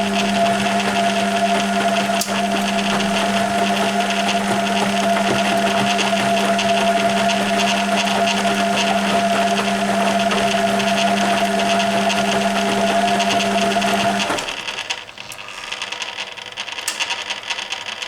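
1980 Hoover Keymatic A3112 washing machine in its wash phase: the motor hums steadily as it turns the stainless steel drum, then cuts out suddenly about fourteen seconds in, leaving quieter sounds.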